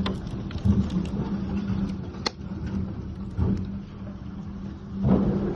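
Tornado-force wind rushing with rain, a steady low hum underneath, and scattered sharp knocks of flying debris, one clear crack a little past two seconds in; the noise swells near the end.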